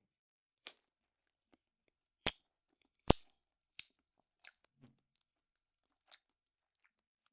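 Close-miked eating sounds: scattered sharp clicks and knocks of mouth and utensils while eating bread soaked in stew, the loudest a knock about three seconds in.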